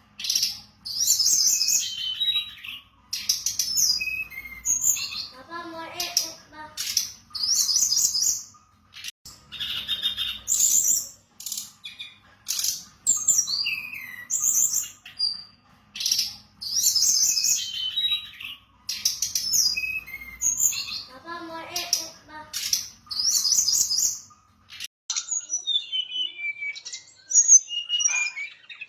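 Fulvous-chested jungle flycatcher singing: high, fast, varied phrases of one to two seconds with short pauses between, the run of phrases repeating; near the end, thinner, more scattered notes take over.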